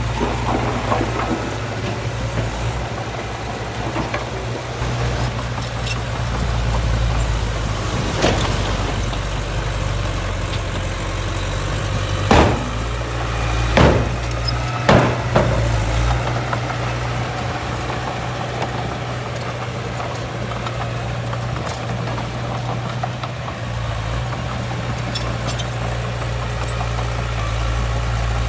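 Heavy diesel engine of earthmoving machinery running steadily at low revs, with a handful of sharp knocks or clanks near the middle.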